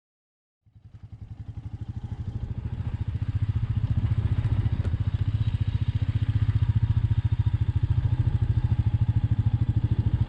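Royal Enfield Meteor 350's single-cylinder engine running with a steady, evenly pulsing beat, fading in from silence about a second in.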